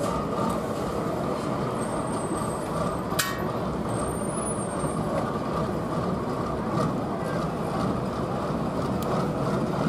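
A competition truck's diesel engine running steadily, with one sharp click about three seconds in.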